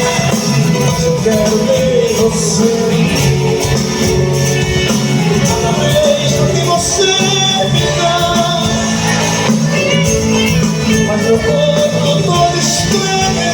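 Live band music from a sertanejo show: a loud, steady instrumental passage with a bass line under melodic lines and no lead vocal.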